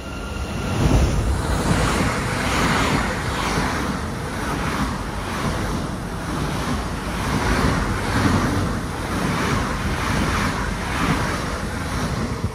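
A train passing close by: a steady rush of wheel, rail and wind noise that builds within the first second and holds loud, with a regular pulsing a little under twice a second as the wheelsets go by.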